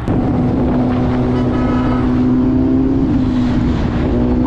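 Yamaha Banshee two-stroke twin engine pulling away under throttle, its pitch holding steady, dipping twice near the middle as the rider shifts, then climbing again. Wind noise buffets the microphone.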